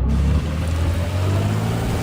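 Heavy diesel engine of earthmoving machinery running steadily under load, with a faint whine slowly rising in pitch.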